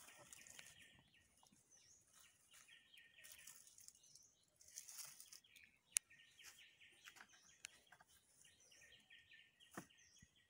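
Faint birdsong: a pulsed trilling call repeated every few seconds with short high chirps between, and a single sharp click about six seconds in.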